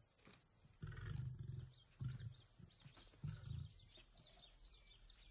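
Lion giving a series of deep grunts, three low pulses about a second apart. Faint high bird chirps begin about halfway through.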